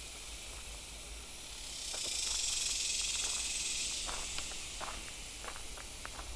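Cicadas buzzing in the trees: a steady high hiss, with one cicada's call swelling up loud about two seconds in and fading away about two seconds later. A few faint ticks are scattered through it.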